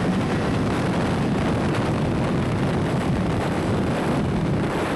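Steady wind rush on a moving motorcycle's microphone, with the bike's engine running underneath.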